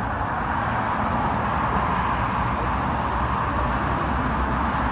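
Airbus A380's four jet engines at takeoff power: a steady rushing noise over a deep rumble.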